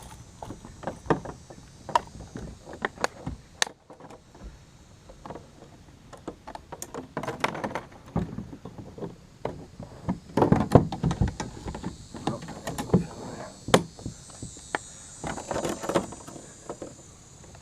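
Fishing gear being handled and stowed on a kayak: irregular knocks and clunks, with a few longer stretches of scraping and shuffling.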